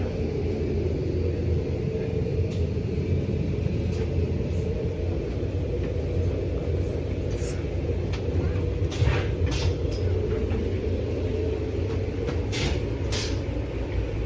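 Steady low rumble inside an Amtrak passenger car. In the second half come several short hisses, two at a time.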